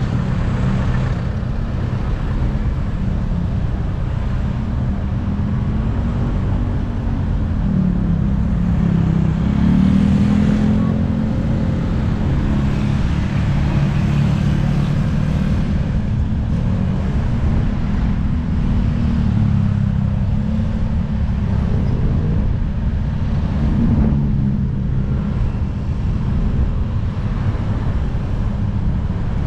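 Steady road traffic: car and motorcycle engines running and passing, with engine pitches rising and falling.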